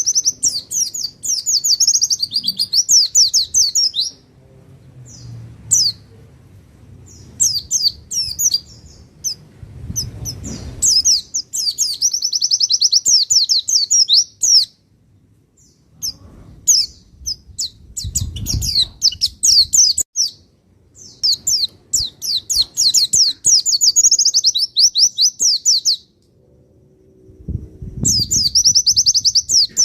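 Pleci (white-eye) singing: long, rapid, high-pitched twittering phrases of a few seconds each, broken by short pauses, with a few faint low thuds between phrases.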